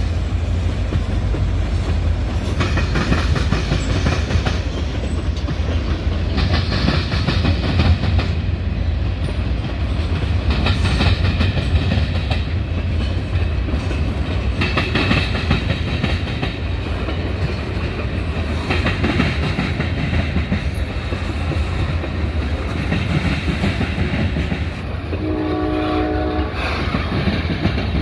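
Freight train rolling past: a steady low rumble with rail cars' wheels clattering over the joints in repeated waves. A short pitched horn note sounds near the end.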